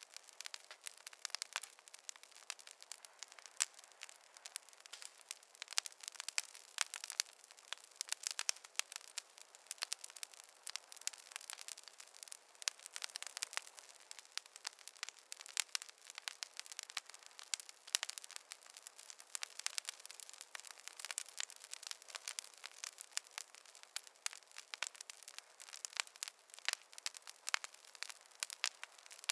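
Wood fire crackling: a dense, irregular run of snaps and pops over a soft hiss, with no low rumble.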